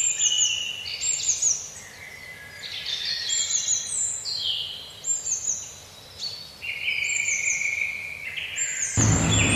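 Several songbirds singing and chirping together, one repeating a short high descending phrase again and again over lower, longer whistled notes from others. About a second before the end, a steady noise with a low hum comes in under the birdsong.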